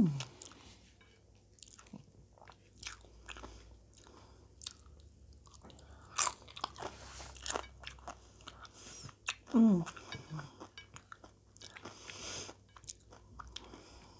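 Close-miked chewing and crunching of nachos: tortilla chips with salsa and sour cream, eaten by hand, with scattered short crisp crunches. A brief hummed "mm" about nine and a half seconds in, falling in pitch, is the loudest sound.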